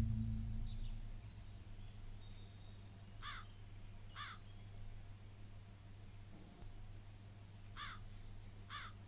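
Faint bird calls: four short calls in two pairs about a second apart, with softer high chirps between them, over a low steady hum.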